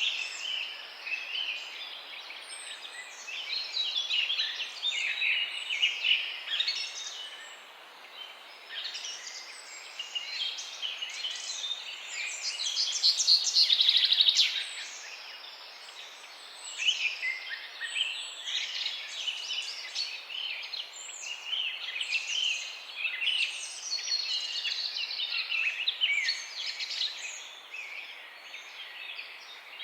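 Many small birds chirping and trilling at once, a dense overlapping chorus of high calls, with one louder, buzzing trill from about twelve to fourteen seconds in.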